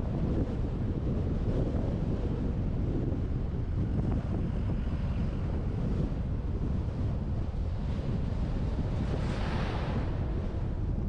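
Wind buffeting the microphone of a roof-mounted GoPro on a moving truck: a steady low rumbling rush. About nine seconds in a brief hiss swells and fades.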